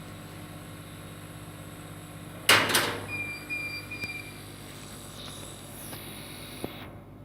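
Steady hum of a running laser cutter setup. About two and a half seconds in there is a sudden loud clatter, like a lid or door being shut, followed by a high electronic beep in three short pulses.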